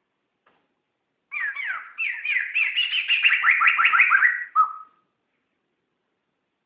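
A poksay (laughingthrush) singing one fast phrase of repeated down-slurred whistled notes that grows louder and ends on a lower note, starting a little over a second in, then falling silent.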